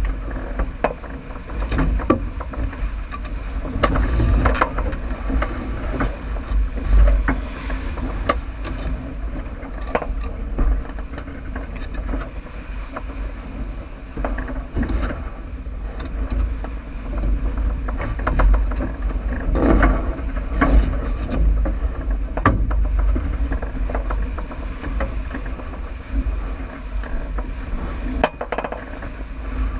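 J80 sailboat running downwind: water rushing along the hull with a heavy wind rumble on the microphone, and scattered knocks and clicks from the boat's fittings throughout.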